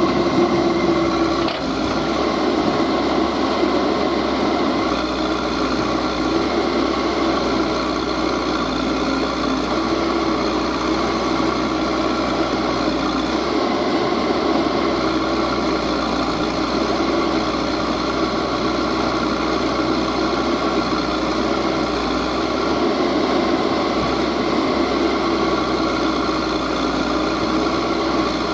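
Diesel engine running steadily at an even speed, with a slight dip in level about a second and a half in.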